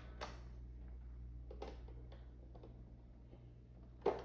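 ILIFE V5s Max robot vacuum giving scattered faint clicks and knocks over a steady low hum, with one sharper knock near the end.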